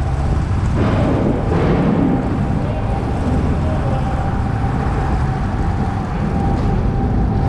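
A vehicle engine running with a steady low rumble and a faint steady hum above it.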